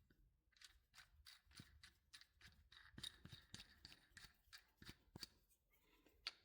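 Faint, irregular metallic clicks and scrapes, several a second, as a tie rod end and jam nut are turned by hand onto the threaded turnbuckle sleeve of a steering linkage.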